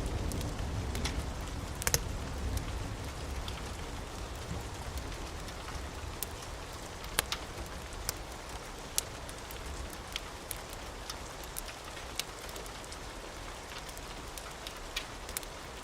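Steady rain pattering, with a fireplace crackling in sharp pops every second or so. A low rumble of thunder fades away over the first few seconds.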